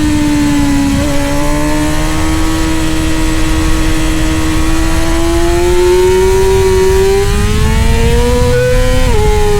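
Middleweight superbike racing motorcycle engine at high revs. Its pitch holds, then climbs steadily under acceleration, drops sharply at an upshift about nine seconds in and starts climbing again. A steady low rush of wind noise runs underneath.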